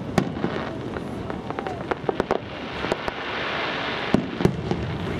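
Aerial display fireworks going off: a string of sharp bangs and pops, with a stretch of dense crackling hiss in the middle and a couple of louder bangs near the end.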